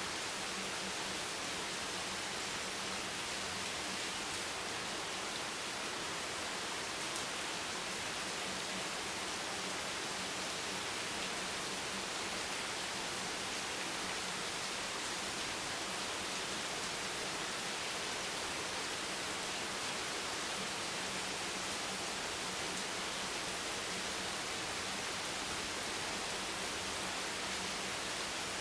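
Steady rain recording, an even, unchanging hiss.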